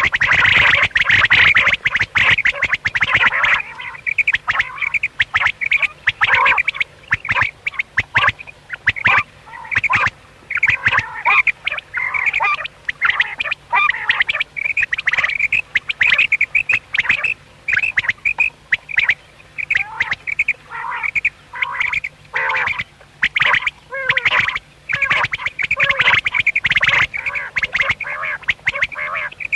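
Common quail calling: a rapid, unbroken stream of short, repeated calls, denser and louder for the first few seconds.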